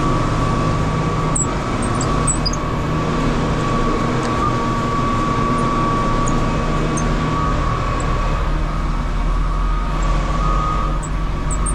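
Semi truck's diesel engine running steadily, with a constant high whine over the low hum and a few faint ticks.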